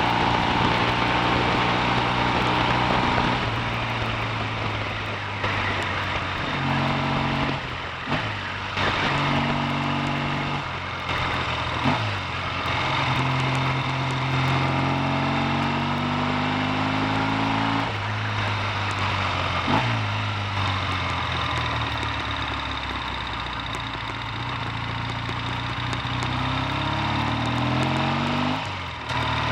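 Triumph T140V 750 cc parallel-twin engine pulling on the road: its note climbs slowly in pitch, then dips abruptly at about five gear changes and climbs again.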